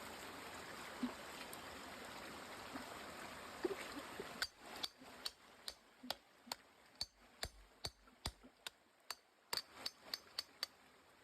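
Water running steadily, then, about four seconds in, a run of sharp taps or clicks, two or three a second, unevenly spaced.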